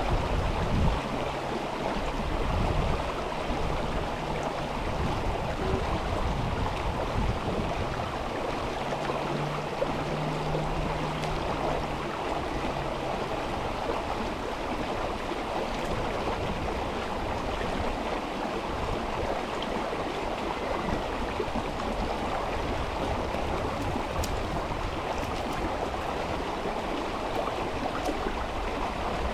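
River water flowing steadily, a continuous rushing of a mountain stream. A faint low hum sits under it during roughly the first half.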